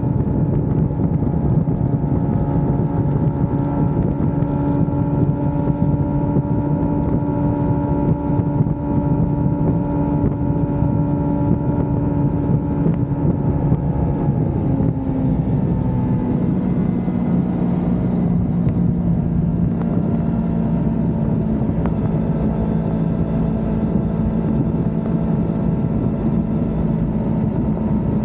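Kawasaki Ninja 400's parallel-twin engine running steadily while riding, with wind noise. About halfway through the engine note falls gradually to a lower pitch, then holds steady: the revs dropping.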